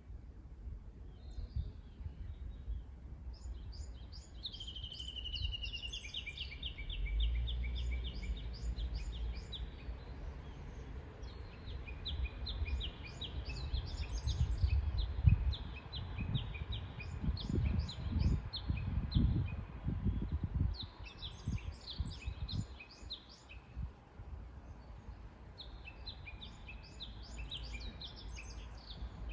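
Songbirds singing outdoors: phrase after phrase of rapid, evenly repeated high notes, like a trill, with short gaps between phrases. Through the middle, low rumbling gusts rise and fall under the song.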